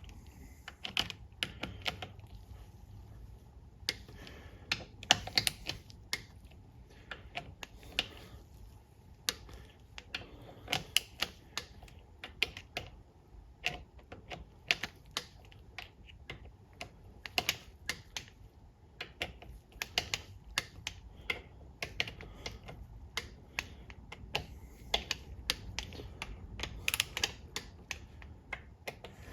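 Irregular sharp clicks of a torque wrench and socket working around the valve body bolts, some in quick clusters, as each bolt's torque is rechecked.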